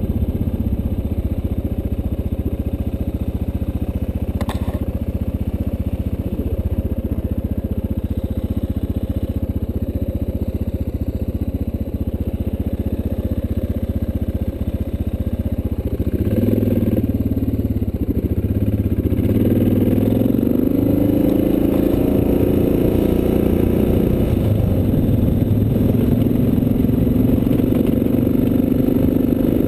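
Single-cylinder dual-sport motorcycle engine running while riding, heard from the bike. About sixteen seconds in it gets louder and the engine note climbs as the bike accelerates, then holds at the higher pitch.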